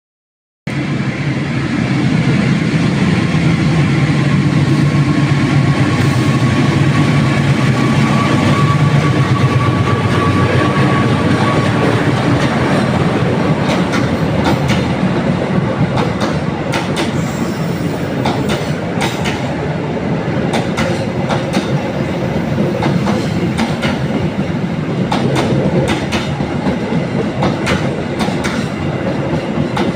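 A passing train led by a CC206 diesel-electric locomotive: a heavy engine rumble at first, then the carriage wheels clacking over rail joints again and again through the second half as the train rolls by.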